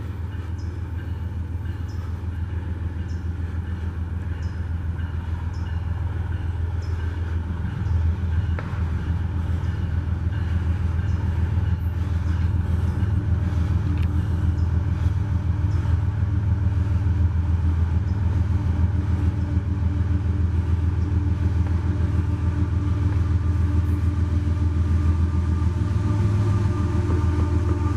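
Low rumble of an approaching train's diesel locomotives, growing steadily louder. Near the end, the locomotive horn begins to sound.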